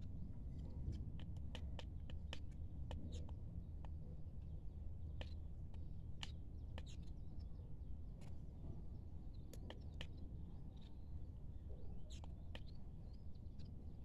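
Small birds giving short, sharp chirps and ticks, scattered irregularly a few times a second, over a low steady rumble.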